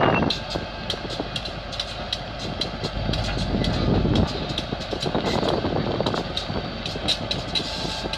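Diesel switcher locomotives moving slowly with freight cars: a steady engine and wheel rumble that swells briefly about three seconds in, with irregular light ticks.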